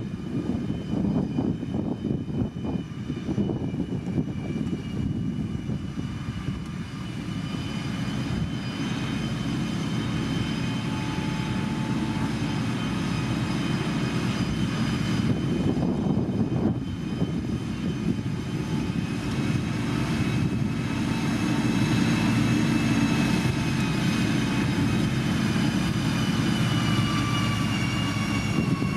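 Heavy diesel road-construction machine running: a steady engine rumble with a high whine over it that falls slowly in pitch near the end.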